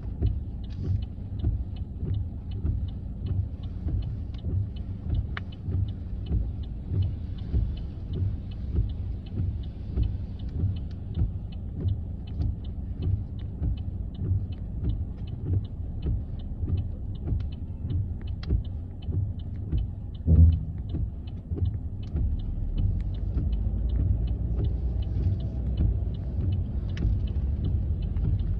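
Car cabin noise: a low rumble with a steady, even ticking at about two and a half ticks a second, typical of a turn-signal relay. A single thump comes about twenty seconds in, and the rumble then grows louder as the car gets moving.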